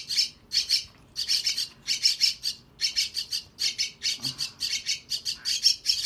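Young crested myna chicks begging for food: short, high calls in quick runs of several a second.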